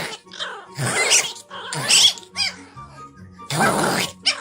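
A dog giving about four short, noisy calls, roughly a second apart, over background music.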